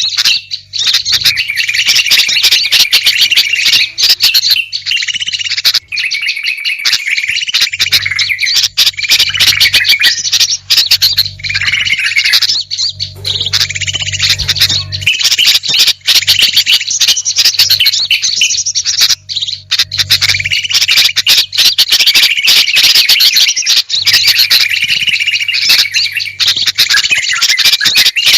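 Dense, unbroken chattering and chirping of many small songbirds, a bird-lure (pikat) call recording, with a low hum underneath at times.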